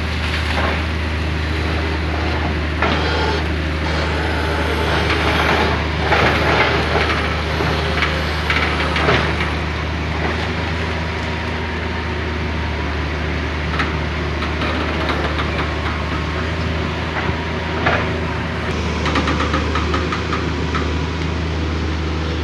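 Old excavator's diesel engine running steadily under load while its arm works, with creaks and knocks from the boom joints now and then. The creaking comes from the ageing machine's worn, corroded joints.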